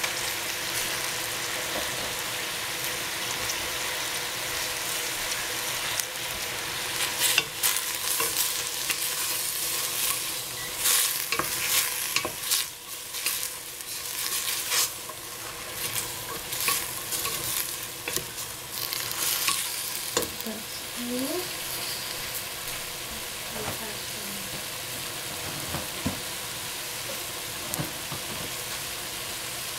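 Rainbow chard sizzling in oil in a stainless steel pot, with a steady hiss throughout. In the middle there is a stretch of stirring, with a wooden spatula scraping and knocking against the pot. After that it goes back to steady sizzling.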